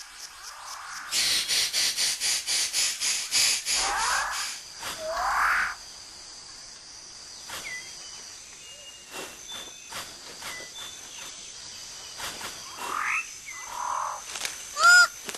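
New Guinea rainforest wildlife sounds: a loud, rapid pulsing animal chorus for a few seconds about a second in, then bird calls with upward-swooping notes and short whistles over a steady high insect hum.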